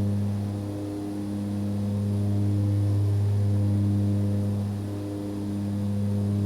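Steady drone of an aircraft in constant flight: a low hum with several evenly spaced overtones. It dips slightly about a second in and again after about five seconds.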